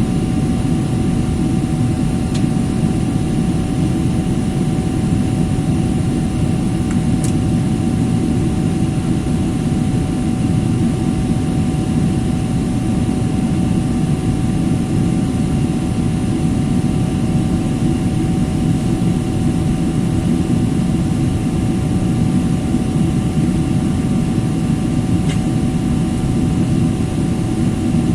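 Steady drone of jet engines and rushing air inside an airliner's cabin, with a few faint thin tones held above it.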